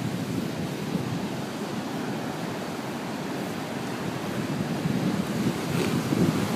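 Storm-driven lake waves surging and breaking, with gusty wind rumbling on the microphone; the surf grows louder near the end.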